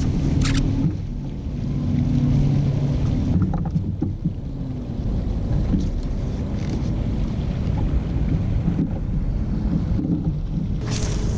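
Wind buffeting a GoPro microphone on a pedal fishing kayak on open water, a dense low rumble. Brief rustles come at about half a second in and again near the end.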